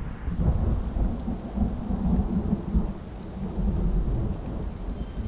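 Thunder rumbling over steady rain in a tundra storm.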